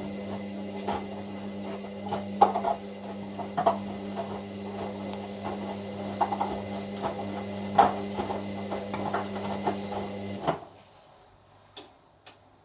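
Hoover washer dryer's drum motor humming steadily as the drum turns, with irregular knocks and clatter from the load tumbling inside. The hum cuts off suddenly about ten seconds in, followed by two sharp clicks.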